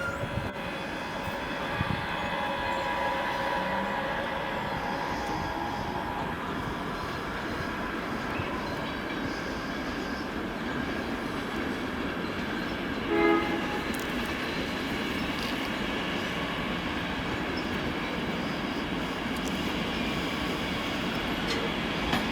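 A train running past on the tracks with a steady rumble and hum. About 13 seconds in, a short horn blast sounds.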